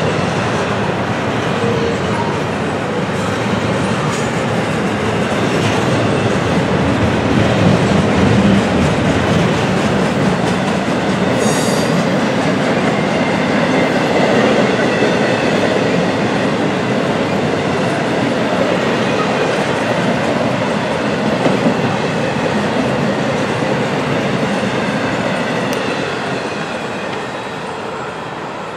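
Double-stack intermodal freight train's well cars rolling past: a steady rumble and clatter of steel wheels on the rails, with a brief high squeal about a dozen seconds in. The noise eases off near the end as the last cars go by.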